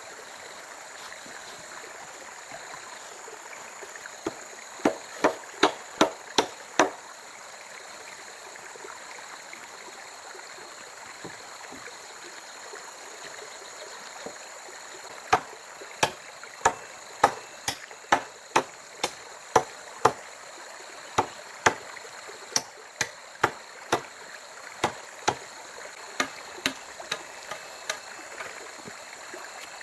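Wood being chopped with a blade: sharp strikes about two a second, a short run of about seven, then a pause, then a longer run of about two dozen, over a steady rushing background.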